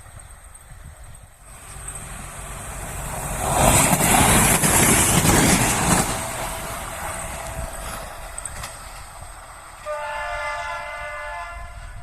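Passenger train passing at speed, building to its loudest about four seconds in with the wheels clattering over the rail joints, then a train horn sounding for about a second and a half near the end.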